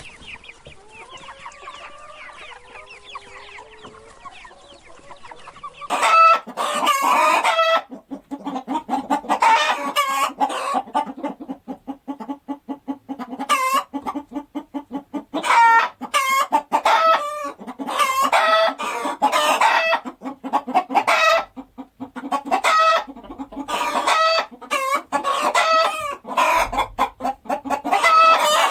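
Chickens clucking and calling in repeated loud bouts, beginning about six seconds in after a quieter stretch of fainter calls.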